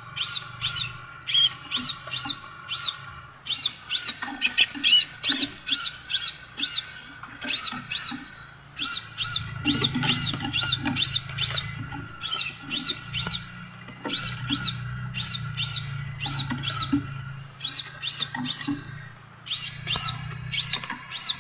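Sepah raja songbird calling: quick runs of short, sharp, high chirps, several a second, broken by short pauses. A faint low hum runs underneath.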